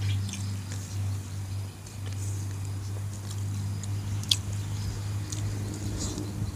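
Close-up eating sounds of a man eating with his hands: chewing and lip smacks, with scattered short clicks, over a steady low hum.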